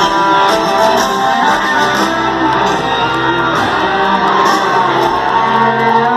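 Loud rock music led by electric guitar playing quick runs of notes over the band.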